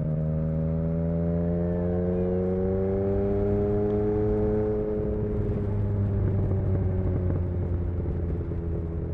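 Yamaha XSR900's inline three-cylinder engine through an exhaust with the dB killer removed, pulling steadily in one gear: the note rises slowly over the first few seconds, then levels off and eases slightly.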